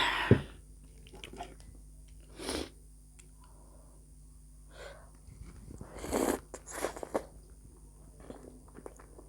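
Close-miked eating sounds of a mukbang: chewing and biting, with a few short noisy bursts a couple of seconds apart, the loudest right at the start.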